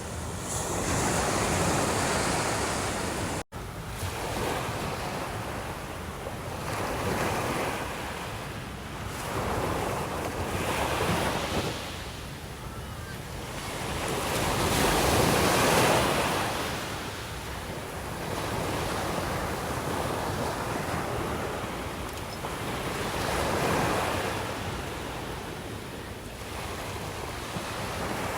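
Sea waves breaking on the shore at night, each wash swelling and fading every four to five seconds. The sound cuts out for an instant about three and a half seconds in.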